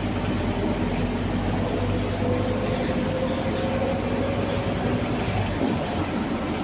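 Scania K230UB city bus's five-cylinder diesel and drivetrain running under way: a steady low drone with a whine that rises in pitch through the middle.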